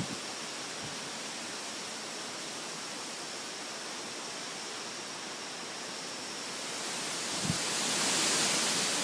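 Heavy storm winds rushing as a steady hiss, swelling into a stronger gust about seven seconds in.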